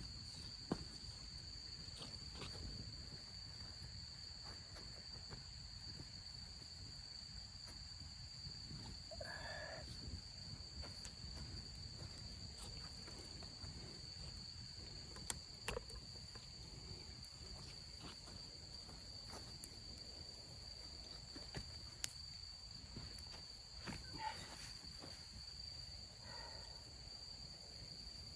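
Insects such as crickets trilling steadily in one unbroken high-pitched tone, over a low outdoor rumble, with scattered faint clicks and a couple of brief short sounds about nine seconds in and near the end.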